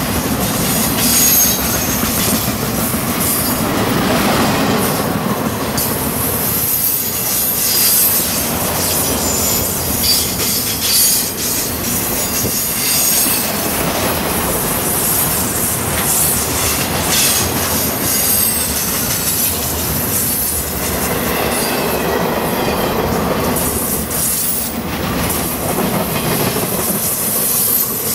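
Intermodal freight cars loaded with semi-trailers rolling past at close range as the train runs downgrade. Steel wheels clack over the rails, with a high-pitched wheel squeal that comes and goes.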